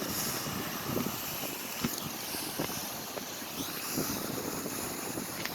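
Steady rushing of a waterfall and creek, mixed with wind on the microphone, with a few faint knocks.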